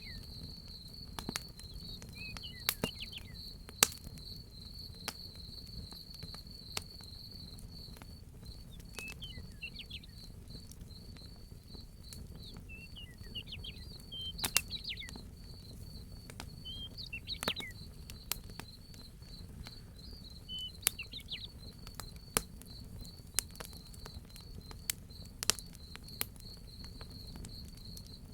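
Crickets chirping steadily in a high pulsing trill, with a wood fire crackling and giving off sharp pops throughout over a low steady rumble. A bird calls in short chirps several times, near 3, 10, 14, 17 and 21 seconds.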